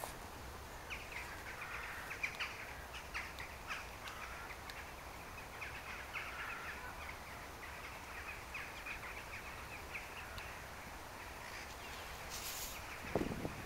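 Outdoor birds calling: many short chirps and calls, several a second, over a faint steady background. Near the end come a brief hiss and a low thump.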